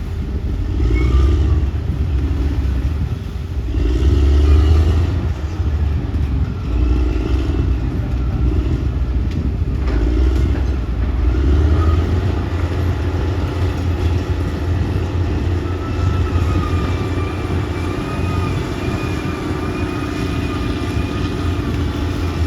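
Caterpillar D6R XL bulldozer's diesel engine running under load while leveling dirt, its rumble swelling and easing every few seconds. A thin, wavering whine joins in during the last several seconds.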